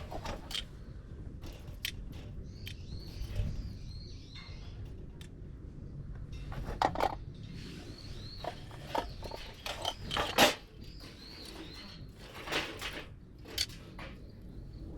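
A small bird chirping in a repeated series of short calls, over scattered sharp clicks and knocks, the loudest about ten seconds in.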